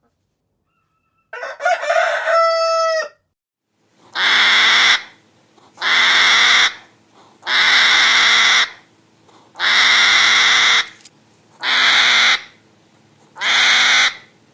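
A rooster crows once. Then a harsh, raspy animal call repeats six times, about one every two seconds, each lasting about a second.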